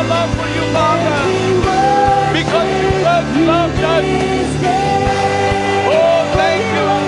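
Worship song played by a live band with drums, bass and held chords, and a voice singing the melody over a steady beat.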